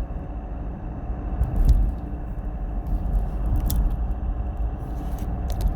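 Hyundai Santa Fe DM's R 2.0 diesel running, heard as a steady low rumble with a few light clicks.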